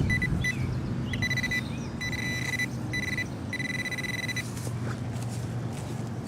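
Metal detector's steady high-pitched target tone sounding in several short on-off stretches, the longest about a second long past the middle, as it is passed over a freshly dug plug: the sign of a metal target close by. A low steady rumble runs underneath.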